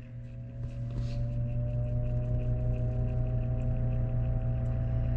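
Old Lasko box fan's electric motor humming on high as it slowly spins up, its whine creeping upward in pitch and getting louder over the first couple of seconds. The motor is slow to start even though its bearings are well oiled, which the owner puts down to a tired old fan.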